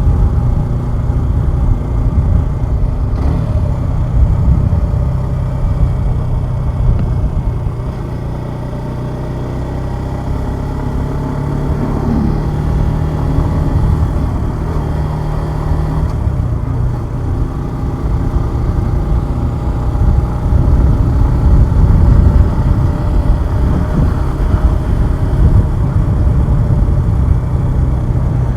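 Suzuki Gixxer 150SF's single-cylinder engine running while the bike is ridden, its pitch rising and falling with the throttle. A strong low rumble of wind and road noise lies underneath. It eases off briefly about a third of the way in, then pulls harder again toward the end.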